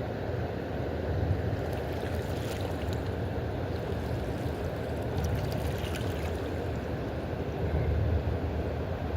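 Steady rush of fast river water in a dam's tailwater, a dense low noise without a break.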